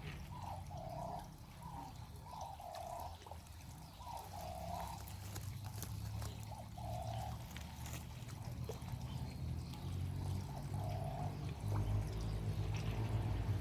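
Water pouring and trickling into a koi pond, with short repeated calls from an animal in the first half and a low rumble building near the end.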